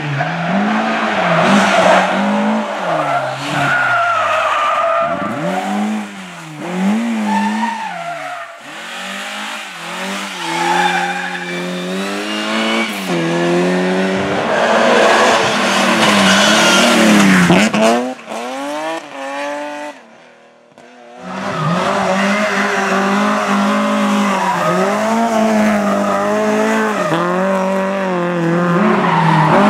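Rally car engines at full revs, pitch climbing and dropping again and again through gear changes and lifts, with tyres squealing. The engine sound fades out about twenty seconds in, then comes back loud.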